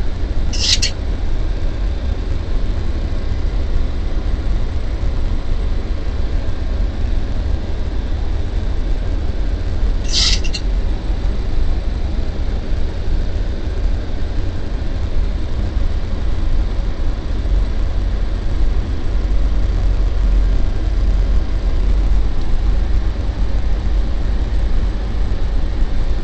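Steady low rumble of airflow and engine noise inside a Boeing 737-800 on final approach. Two brief high-pitched chirps cut through it, one about a second in and one about ten seconds in.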